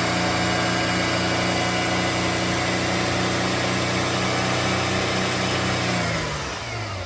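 2006 Mercedes R350's 3.5-litre V6 idling steadily, then switched off about six seconds in, its pitch falling as the engine spins down.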